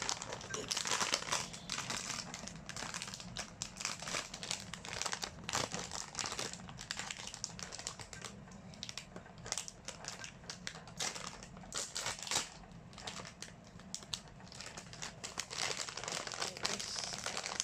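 Crinkly packaging of a blind-box toy being handled and unwrapped, a dense, irregular crackling and rustling.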